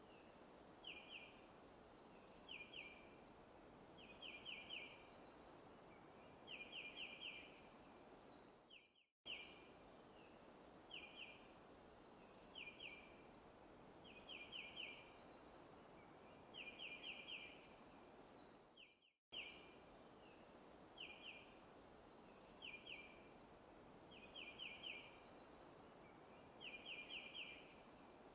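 Quiet forest ambience: a steady hiss with a small bird repeating short bursts of two to four quick, high chirps about every two seconds. The recording is a loop that repeats about every ten seconds, with a brief dropout between repeats.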